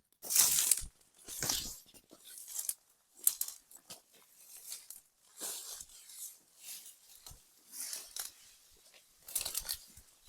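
Dry leaf litter and twigs crunching and rustling in irregular bursts about once a second, as someone moves through the forest floor.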